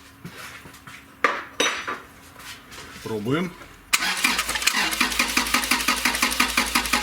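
Toyota 2TR four-cylinder petrol engine being turned over on the starter without firing, cranking in an even pulse of about six beats a second that starts suddenly about four seconds in. The cranking is a test of oil flow at an opened VVT-i oil passage that the mechanics suspect is blocked.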